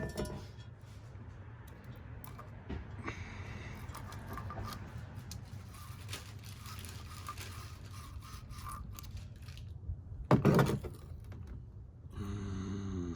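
Metal parts of a disassembled garbage disposal being handled and fitted together: scraping and light clinking, with one loud knock about ten seconds in. A short tone that falls slightly in pitch comes near the end.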